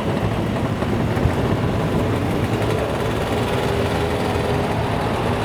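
A car engine running steadily, with a low, even drone and no revving.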